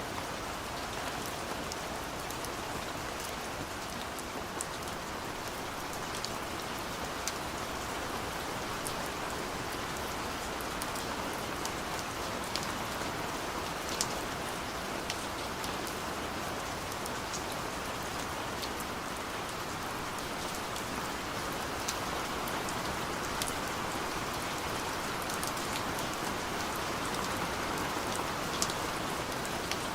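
Steady rain falling on a surface, an even hiss with scattered sharp drip ticks of single drops.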